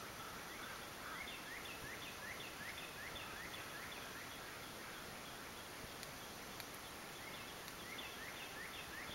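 A bird calling a quick series of short slurred notes, about three a second, in two runs, faint over steady background hiss.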